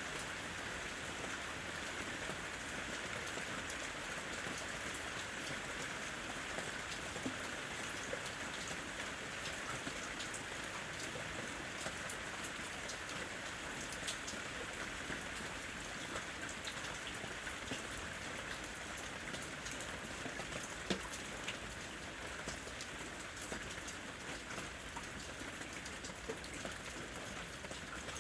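Steady rain falling on a house roof: an even hiss of rain full of small scattered drop ticks.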